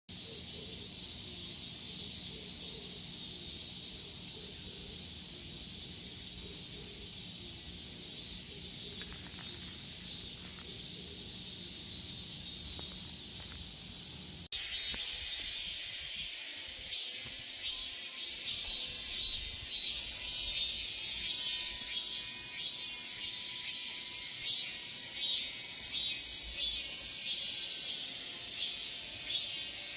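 Cicadas singing: a steady high buzz, then about halfway through an abrupt cut to a louder chorus with rapid, pulsing calls.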